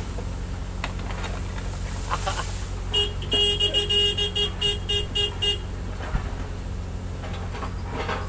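Excavator horn sounded in a quick series of about nine short blasts over a couple of seconds, over the steady running of the SANY 135F excavator's diesel engine.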